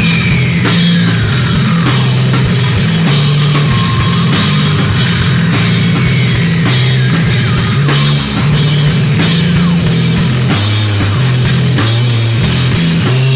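Loud rock music with fast, driving drums, guitar and a stepping bass line. Over the first two seconds a high note glides steadily downward in pitch.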